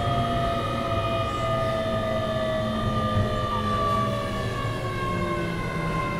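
Keio 7000 series electric train running, heard from inside car 7029. Several whining tones from the traction motors and gearing slowly fall in pitch as the train slows, over steady wheel-on-rail running noise.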